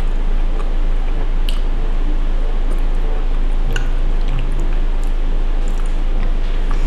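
Wet, squishy chewing of creamy pasta, with a few light clicks scattered through it, over a steady low electrical hum and hiss.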